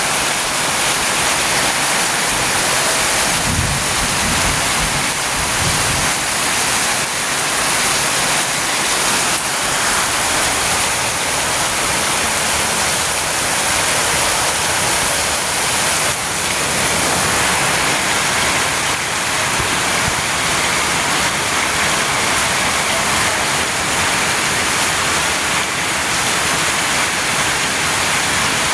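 Very heavy rain pouring down in a steady, dense hiss. A brief low rumble comes about four seconds in.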